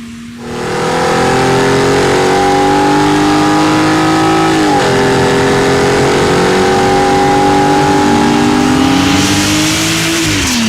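Jeep Wrangler JL with a BORLA ATAK cat-back exhaust accelerating. The engine note climbs slowly, drops sharply at a gear change about halfway through, climbs again, and drops near the end.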